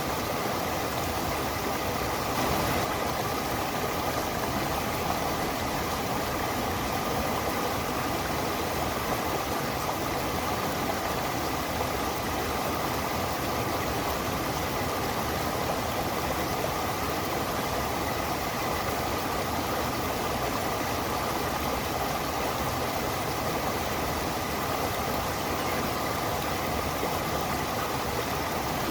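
Stream water rushing and splashing over rocks in a steady, unbroken wash of noise, with no pauses or single events.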